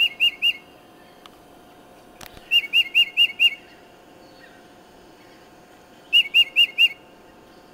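Recorded tufted titmouse song played through a laptop speaker: three quick phrases of four or five clear whistled notes each, the repeated 'peter-peter' song of the species, with pauses of about two seconds between phrases.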